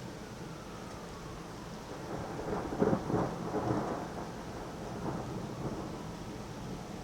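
Thunder rumbling over steady rain. The rumble swells about two seconds in, peaks sharply near three seconds and trails off in a couple of weaker rolls.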